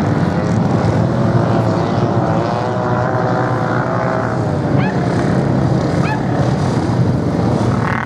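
Racing motorcycle engines running hard on sand, a continuous drone whose pitch wavers as the bikes change speed.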